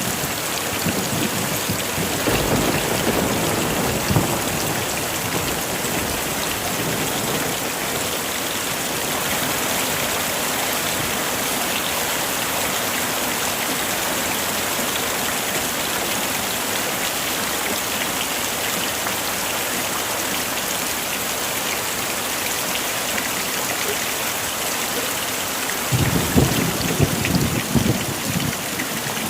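Heavy rain falling steadily, with thunder rumbling about two seconds in and again near the end.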